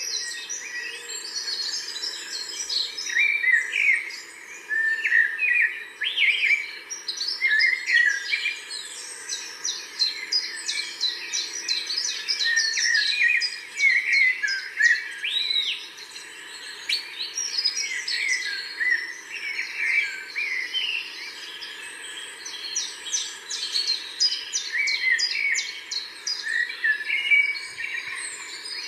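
Several songbirds singing and chirping at once, a dense chorus of quick overlapping calls and trills.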